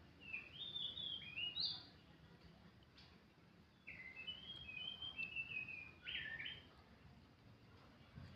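Oriental magpie-robin singing: two phrases of clear whistled notes, the first in the opening two seconds and the second starting about four seconds in.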